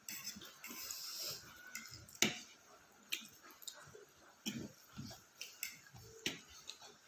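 Eating sounds: chewing, with irregular sharp wet mouth clicks and short soft thuds.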